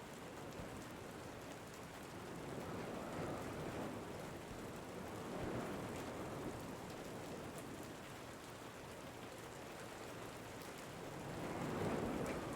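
Steady rain with wind, the hiss swelling louder about three times.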